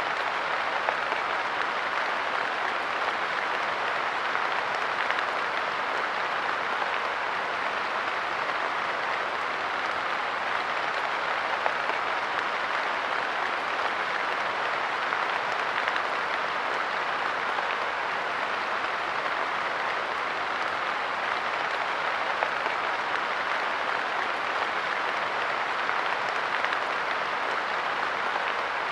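Light rain falling steadily on a park bench, an even patter with scattered louder drops.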